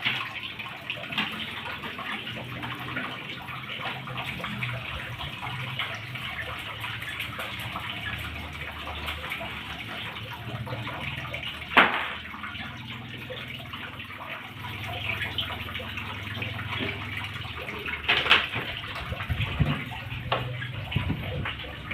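Water sloshing and running as clothes are washed, with a sharp splash or knock about halfway through and a few more later.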